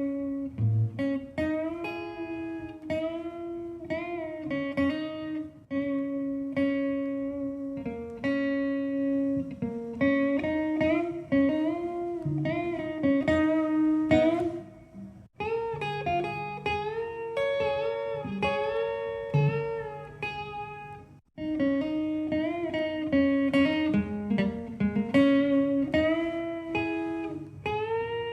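Guitar instrumental: a melody of plucked notes with string bends over lower bass notes, with two brief breaks in the playing.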